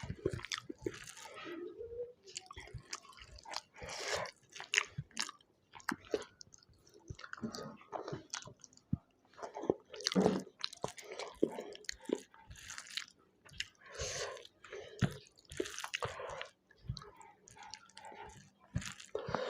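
A person eating close to the microphone: irregular chewing with wet mouth clicks and lip smacks, and an occasional crunch.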